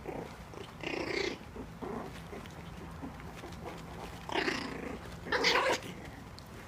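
Four-week-old Cairn–Papillon puppies vocalizing while they play-fight: a few short, squeaky growling bursts, the loudest two near the end.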